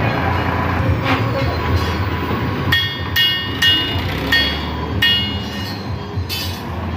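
An engine running steadily under a series of about six sharp metal clanks that ring briefly, spaced roughly half a second to a second apart, typical of steel parts or a trailer knocking during tractor loading work.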